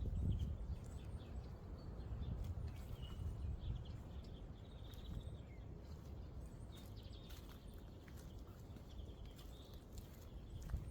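Birds chirping faintly over a steady low rumble, with a few sharp clicks near the end.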